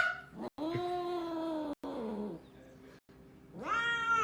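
A cat meowing: one long, drawn-out meow held on a steady pitch, then a shorter meow that falls in pitch. After a brief pause a rising meow comes near the end.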